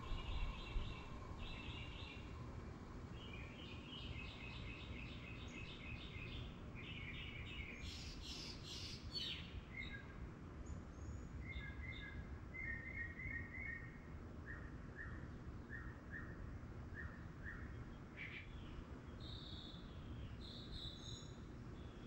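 Small birds chirping in repeated short phrases, over a faint steady low rumble from a Bryant Preferred air conditioner condenser whose fan is coasting down after the unit has shut off.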